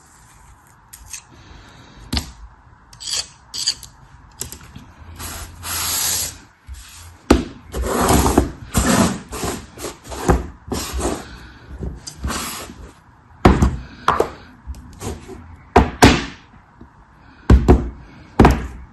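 Irregular crunching, scraping and cracking of a crumbly material being crushed and cut by hand, with sharp clicks between the strokes and a denser cluster of crunches about halfway through.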